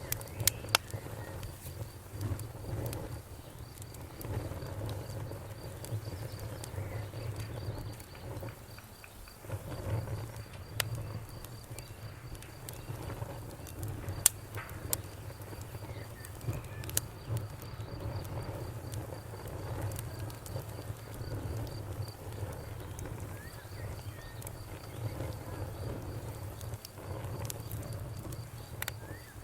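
Bonfire crackling, with a low steady rumble and sharp pops scattered through it. A cricket chirps steadily in even high pulses that stop briefly twice.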